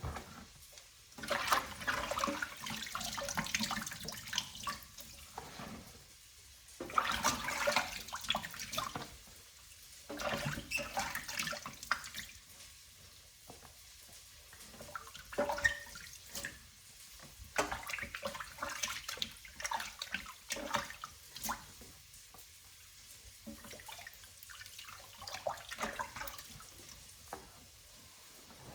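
Water splashing in a kitchen sink in irregular spurts with short pauses between them, as cut collard greens are rinsed and handled.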